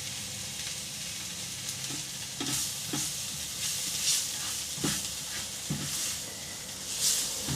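Diced onions sizzling in melted butter in a frying pan, with a silicone spatula stirring and scraping them in a series of short strokes from about two seconds in.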